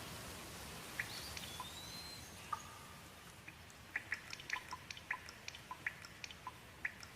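Rain: a soft steady hiss that thins out after about three seconds, with individual water drops plinking, several a second in the second half. A bird gives one brief whistle that rises and falls, about a second and a half in.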